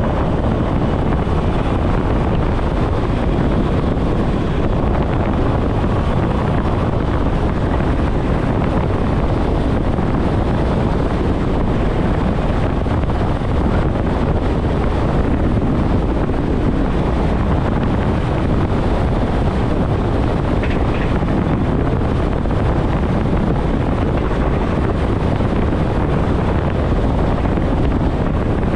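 ÖBB class 4024 Talent electric multiple unit running steadily at about 120 km/h, heard as an even, unbroken rush of wind and running noise.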